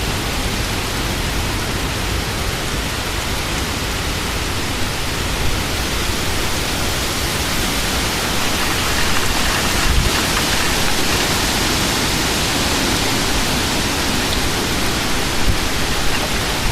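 Heavy wind-driven rain and strong straight-line wind gusts of a severe thunderstorm: a steady, dense hiss that swells a little about halfway through.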